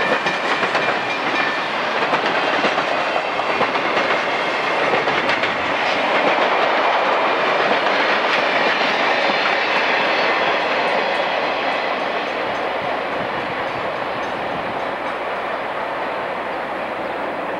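Chicago & North Western freight train cars rolling past, a steady noise of wheels on the rails, growing slightly quieter over the second half as the caboose passes.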